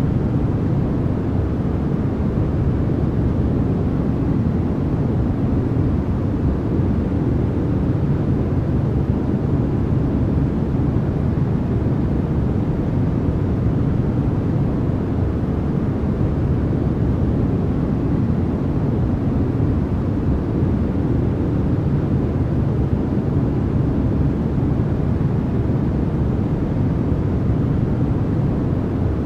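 Steady synthetic sleep noise, sold as white noise, that stays level and unchanging throughout. It is deep and even, with most of its strength low down and little hiss.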